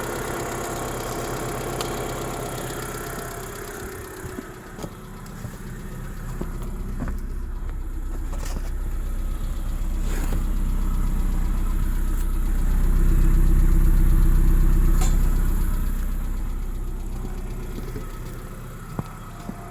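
Mitsubishi 4G93 1.8 GDI inline-four engine running at idle, a steady low drone that swells louder through the middle and then eases back, with a few faint clicks.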